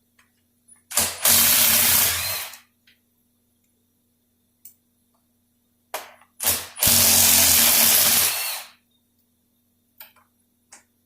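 Impact wrench running in two bursts of about two seconds each, the second about five seconds after the first, each with a brief tap of the trigger just before, backing out the 11 mm bolts of a 46RE transmission's overdrive extension housing.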